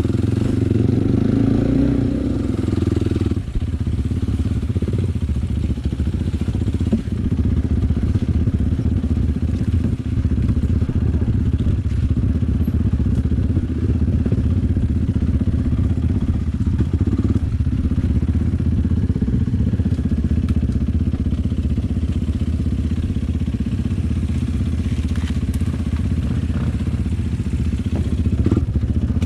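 Enduro motorcycle engine running steadily.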